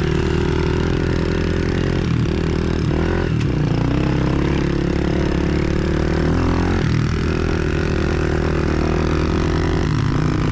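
Small pit bike engine running steadily while riding, dropping in pitch briefly about four times.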